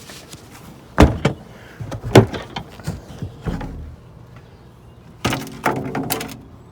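Lid and latches of a water-tight equipment box being opened and handled. There is a sharp knock about a second in, another about two seconds in, and a quick run of clatters near the end.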